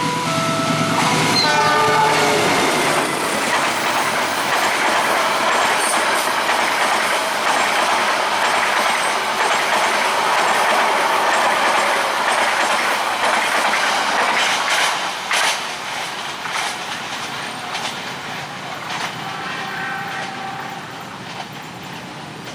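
Train horn sounding a few changing notes that stop about two seconds in, then a train passing at speed with loud wheel and rail noise and clickety-clack, which fades from about fifteen seconds on.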